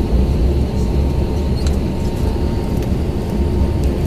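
Steady low rumble of an Airbus A320's jet engines, heard from inside the passenger cabin.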